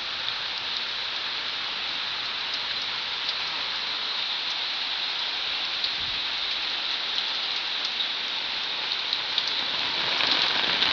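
Steady rain falling, a continuous hiss with scattered drop ticks, growing a little heavier near the end.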